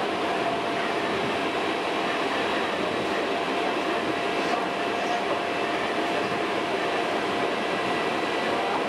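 Hankyu Kyo-train electric train running at speed, heard from inside the car: a steady rumble of wheels on rail with a faint, constant whine over it.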